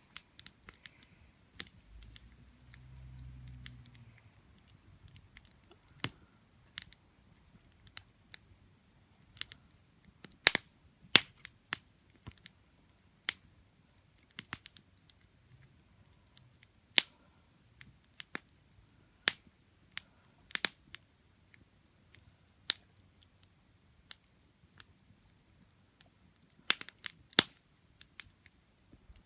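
Wood campfire crackling, with irregular sharp pops and snaps. A brief low rumble comes about two seconds in.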